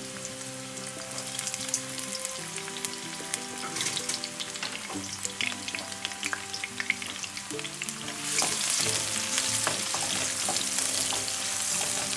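Chopped onions frying in hot oil in a pan, sizzling as they are stirred, with scattered clicks of the spatula against the pan. The sizzle gets louder about 8 seconds in. Quiet background music plays underneath.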